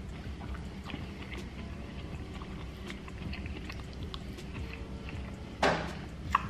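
Close-miked chewing and mouth sounds of a man eating soft cabbage and pot roast, with light clicks of a plastic fork against a glass dish. A brief louder burst of noise comes near the end, followed by a sharp click.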